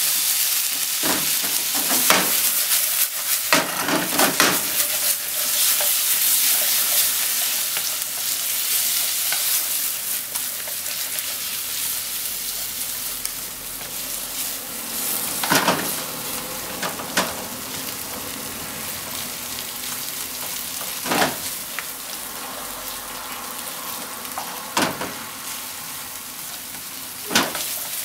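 Shrimp and potato pieces sizzling in a frying pan as they are stir-fried with wooden utensils. The sizzle is strongest in the first several seconds and then eases off, with scattered sharp clacks from the stirring every few seconds.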